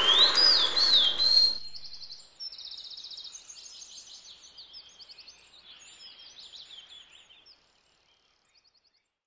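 Birdsong: loud, clear whistled notes sliding up and down over a rushing noise that cuts off about a second and a half in, then fainter rapid trills and short chirps that fade away about seven and a half seconds in.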